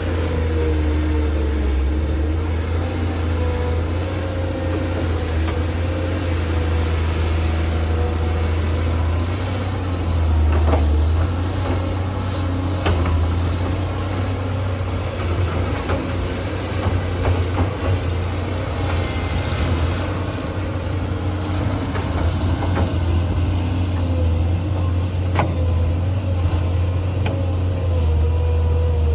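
Tractor engine running steadily at a constant speed, a low continuous drone with a few faint clicks and knocks scattered through it.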